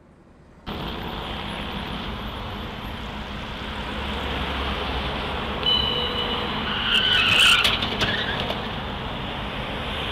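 A car on the road, heard through a dashcam: steady road and engine noise starts suddenly about a second in. About six seconds in a high tyre squeal begins, and a cluster of sharp knocks follows a second later, the loudest moment, as in a skid and collision.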